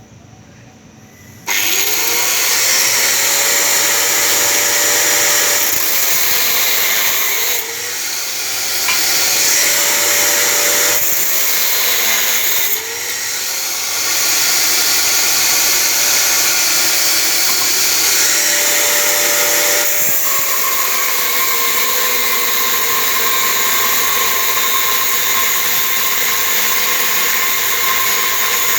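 Handheld electric power tool switching on about a second and a half in, its motor winding up to speed and then running loudly. Its pitch sags and recovers twice as it is loaded, then settles a little lower near the end.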